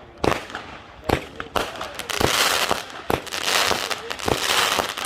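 Fireworks going off: a string of sharp bangs, with two stretches of dense crackling between about two and four and a half seconds in.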